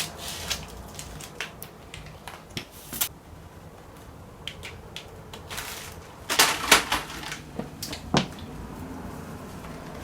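Household handling sounds: scattered clicks, taps and brief rustles of things being moved and handled, with a louder cluster of rustling about six to seven seconds in.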